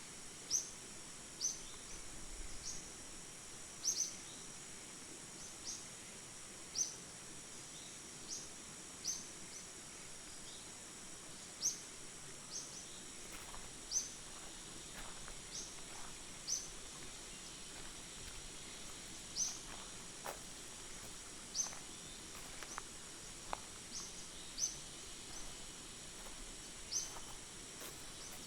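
Rainforest ambience: insects drone steadily at a high pitch, while a short, sharp, high chirp repeats every one to two seconds.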